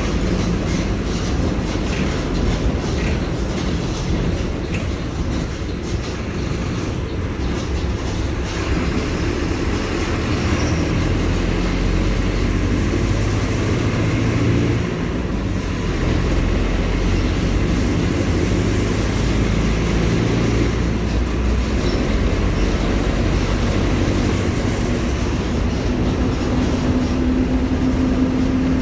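Mercedes-Benz OF-1721 BlueTec 5 diesel bus engine running under a Caio Apache Vip II body, a steady low drone with light rattling. The low rumble swells in the middle, and a steady engine tone stands out near the end.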